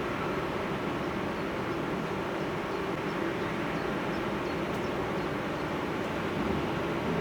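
Steady jet engine noise from a landing Boeing 737-800 with CFM56 turbofans: an even rumble and roar that holds at one level.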